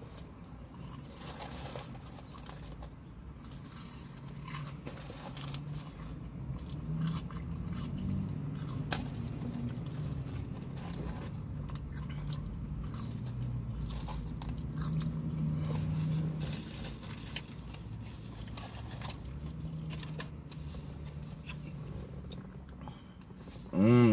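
A person chewing and eating close to the microphone, with soft crunches and mouth clicks over a low hum.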